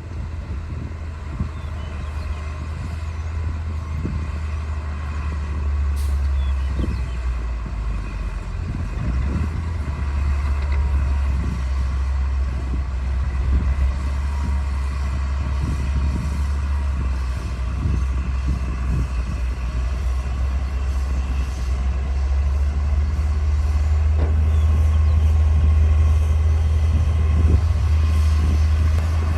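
D60 bulldozer's diesel engine running steadily with a deep drone, growing gradually louder.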